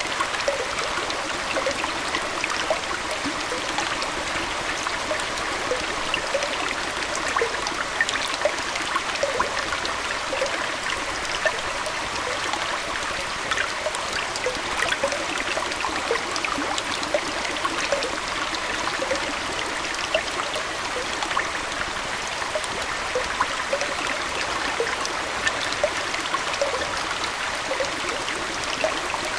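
Aquarium water flowing and trickling steadily, with a constant rush dotted with many small splashing and bubbling plinks.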